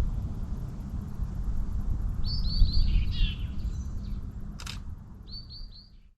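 A bird chirping in two short runs of quick notes over a low rumbling background noise that fades out toward the end. There is one sharp click between the two runs.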